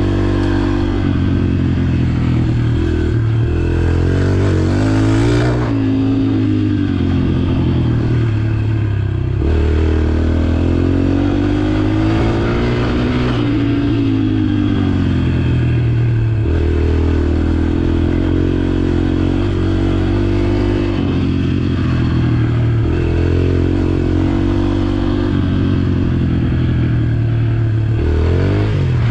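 Dirt bike engine running under load while ridden, its pitch rising and falling over several seconds at a time as the throttle is worked.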